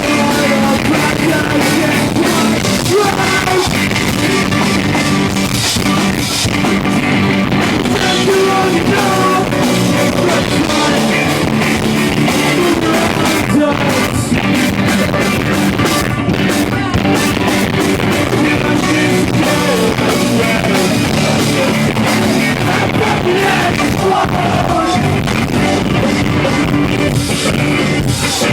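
A rock band playing a song live, with electric guitars, a drum kit and sung vocals, loud and continuous.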